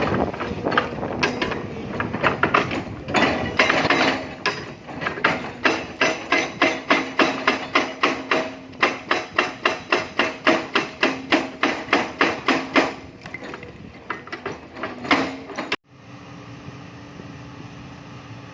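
Excavator-mounted hydraulic rock breaker hammering limestone: sharp, rapid blows, settling into a steady run of about four a second, then stopping. Near the end the sound cuts abruptly to the steady drone of the excavator's diesel engine running.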